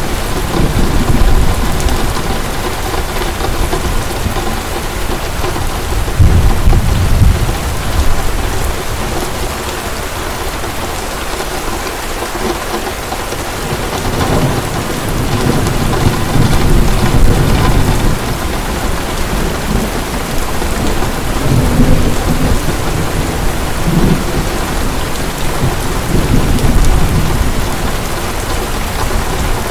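Heavy rain falling steadily, with rolls of thunder rumbling low several times through it, strongest about six seconds in and again in the middle stretch and near the end.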